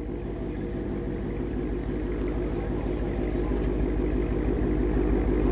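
Supercharged 6.2-litre Hemi V8 of a 2016 Dodge Challenger SRT Hellcat idling as the car creeps forward, its low rumble growing steadily louder.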